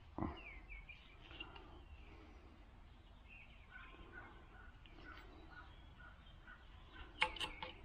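Birds chirping faintly, short repeated notes and little glides, with a soft thump just after the start and a quick run of sharp clicks near the end.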